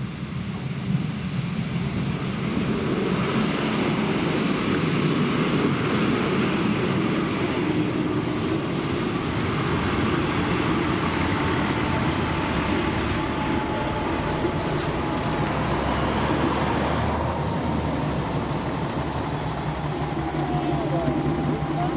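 A ČD class 814 diesel railcar passing over a level crossing: engine running and wheels rumbling on the rails, the noise building over the first few seconds and staying loud as the unit goes by.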